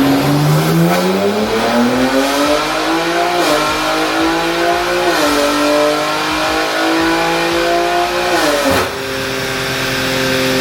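BMW G80 M3's S58 twin-turbo inline-six at wide-open throttle on a chassis dyno, revving up through the gears with two quick upshifts, then lifting off about nine seconds in and settling to a steady lower note.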